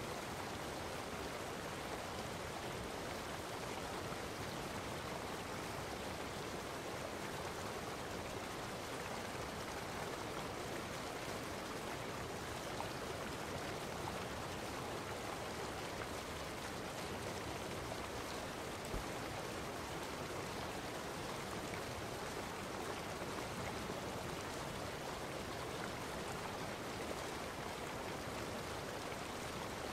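Steady rushing water noise, even and unchanging throughout.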